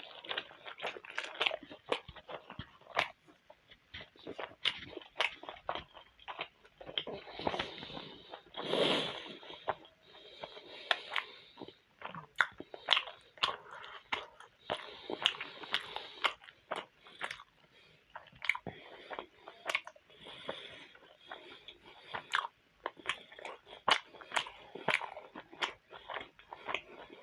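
Close-miked chewing of a mouthful of momo dumplings, with many short wet mouth clicks throughout and a longer, louder sound about nine seconds in.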